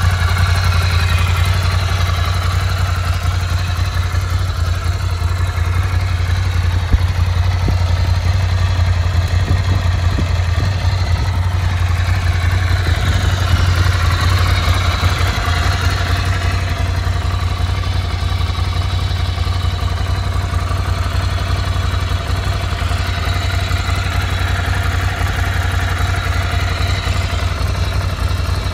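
Ducati Scrambler Icon's 803 cc air-cooled L-twin idling steadily.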